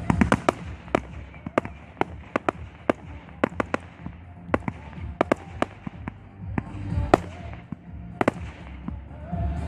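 Fireworks display: aerial shells bursting in an irregular run of sharp cracks and bangs, several a second at times, over a low rumble.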